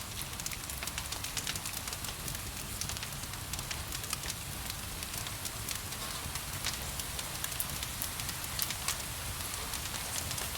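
Wood fire crackling, with irregular sharp pops over a steady rain hiss and a low rumble.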